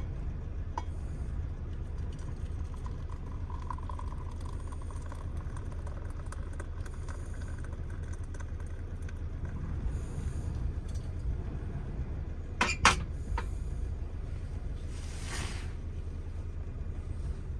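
Steady low rumble of wind buffeting the microphone, with two sharp clicks close together about two-thirds of the way in and a short hiss a couple of seconds later.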